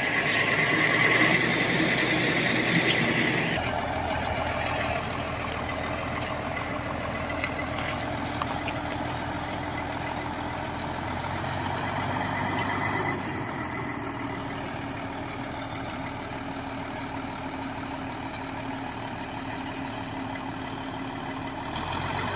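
Engine of a modified truck running steadily as it descends a mountain loaded with acacia wood. Its note changes about three and a half seconds in and again about thirteen seconds in.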